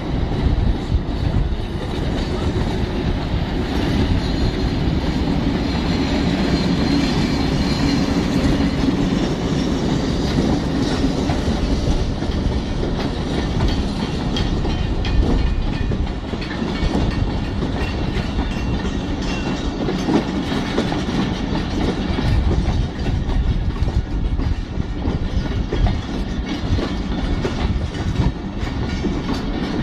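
Train moving on the track, its wheels clacking over the rail joints over a steady rumble.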